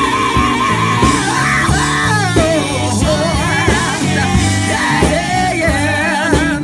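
Live gospel band playing under a lead singer who belts a long held note and then runs through wavering, heavily vibrato-laden notes.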